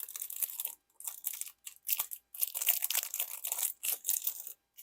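Thin plastic packaging crinkling and tearing by hand in several irregular bursts as a diamond-painting drill pen is unwrapped.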